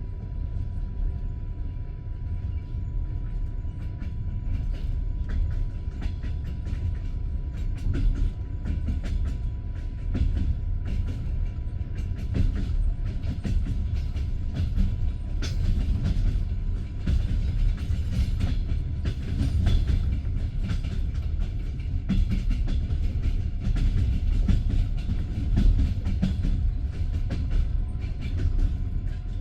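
Passenger train carriage rumbling along the track, its wheels clattering irregularly over rail joints and points, with a thin steady whine underneath.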